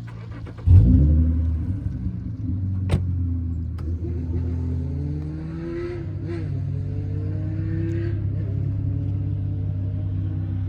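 Toyota Crown Royal's V6 engine starting: it catches a little under a second in with a brief rev flare, then settles into a steady idle. A sharp click about three seconds in.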